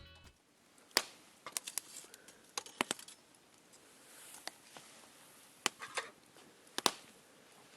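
Wood campfire crackling: irregular sharp pops and snaps, some in quick clusters, over a faint hiss.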